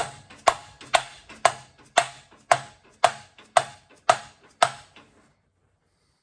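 Ten sharp metallic knocks, about two a second, each with a short ring, from the cast-iron flywheel being fitted on the shaft of an old Curtis air compressor.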